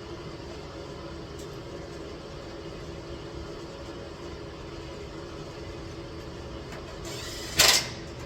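A steady mechanical hum, with a short, loud burst of hissing noise near the end.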